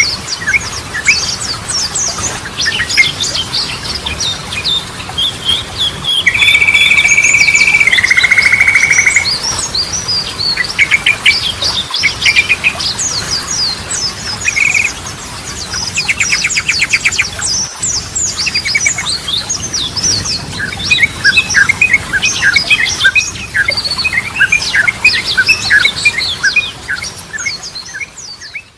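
Yellow-vented bulbul (trucukan) singing and chattering: a dense run of quick chirps, a loud steady whistle about six seconds in that drops to a lower note and holds for about three seconds, and a fast trill around sixteen seconds in.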